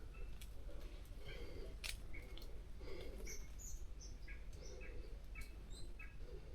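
Wild birds chirping in short, repeated high notes, with a sharp click about two seconds in.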